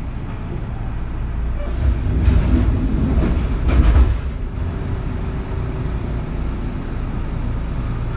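Interior running noise of a Kintetsu 3200 series electric train: a steady low rumble of wheels on rail. It grows louder and clatters between about two and four seconds in, then settles back, with a faint steady tone underneath.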